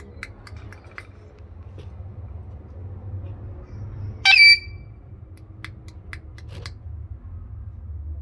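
A parrot gives one loud, short, shrill screech about four seconds in, with a few brief faint chirps before and after it. A low steady hum runs underneath.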